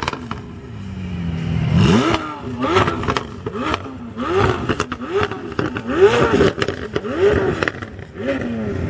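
McLaren 720S twin-turbo V8 being revved in a string of quick blips, about eight, each one rising and then falling in pitch, with exhaust pops and crackles in between.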